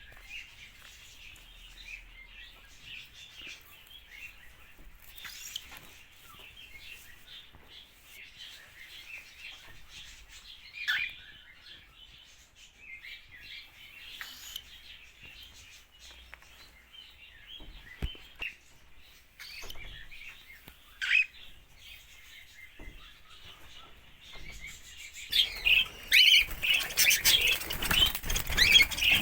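Pet cockatiels and budgerigars chirping and chattering, softly and steadily at first, with a few brief clicks along the way, then much louder and busier over the last few seconds.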